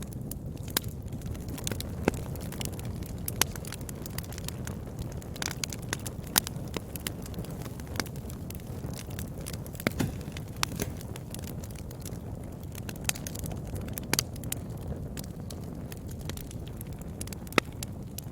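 Wood fire burning in a fireplace: a steady low rumble of flames with irregular sharp crackles and pops, a few louder pops scattered through.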